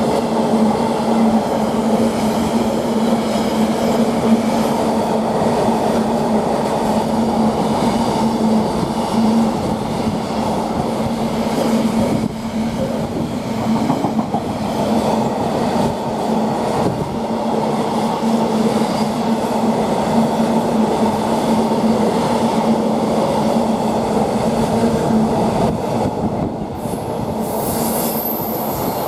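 A DB Cargo Class 66 diesel-hauled freight train running steadily through the station, a long stretch of rolling wagon noise with a constant low hum. A brief high-pitched squeal comes in near the end.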